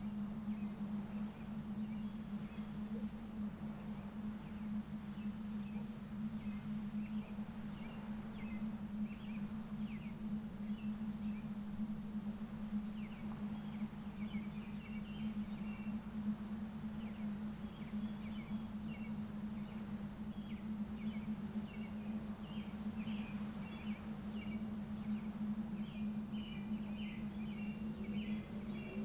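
Outdoor coastal ambience: small birds chirping and twittering in short, quick calls, busier in the second half, over a steady low hum and a soft background rush.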